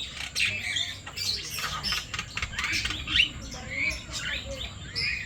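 A mix of birds calling at once: many short overlapping squawks and chirps.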